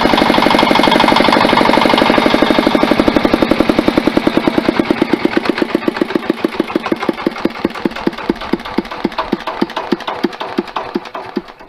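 Old Mitsubishi Katsura diesel engine of a walk-behind tiller running, then winding down from about two seconds in, its beats spreading farther apart and fading until it stops near the end.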